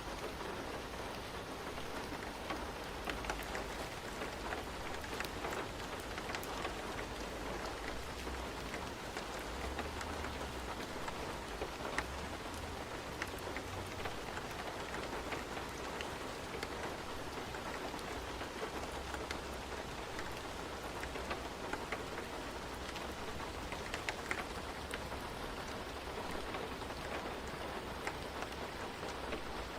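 Steady rain ambience: an even hiss of rain with scattered sharp drop ticks, over a low rumble that swells and fades.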